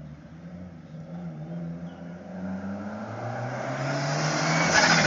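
A car approaching under power, its engine note climbing and growing louder, ending in a loud noisy burst.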